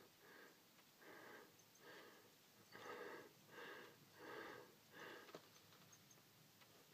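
Faint, rhythmic breathing close to the microphone, a soft breath about every three-quarters of a second.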